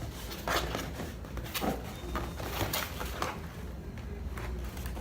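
Hands handling and pulling at a taped cardboard box, trying to open it. The sound is a run of irregular rustles, scrapes and light knocks.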